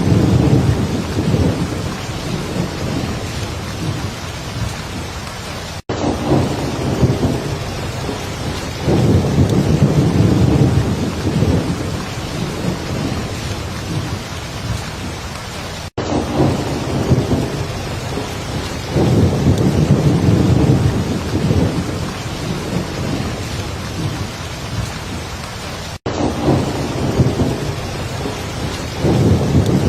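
Heavy rain falling steadily, with low rolling thunder swelling up about every ten seconds. The sound cuts out for an instant three times, roughly ten seconds apart, where a short recording is looped.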